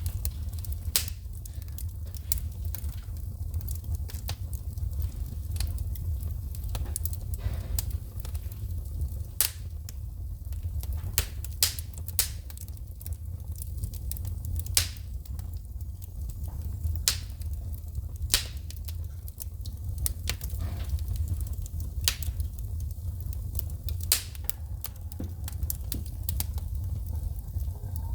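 Wood fire burning in a fireplace, with sharp pops and crackles from sparks shooting out of the burning logs, irregular and a few every second, over a steady low rumble of the flames.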